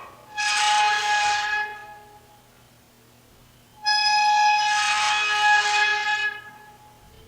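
Farm windmill screeching as wind gusts turn it: two long, high metal squeals, the first about a second and a half long, the second starting about four seconds in and lasting over two seconds.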